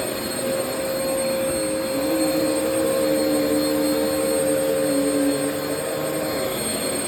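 Vacuum cleaner running steadily, a whining motor over a rushing air noise, its tone dipping and wavering in pitch a couple of times as it works.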